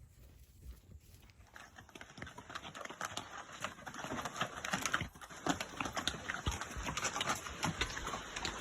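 Hoofbeats of a Tennessee Walking Horse, a steady clip-clop that grows louder as the horse comes closer.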